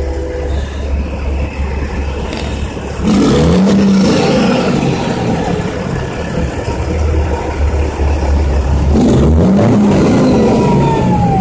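A vehicle engine revving up and back down twice, about three seconds in and again about nine seconds in, over a steady low rumble. Near the end a single tone glides downward.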